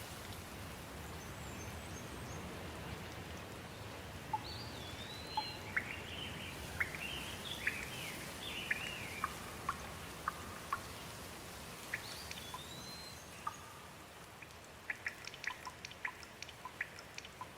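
Steady rain with birds chirping and whistling over it. Toward the end the rain thins and a run of quick, closely spaced drips takes over.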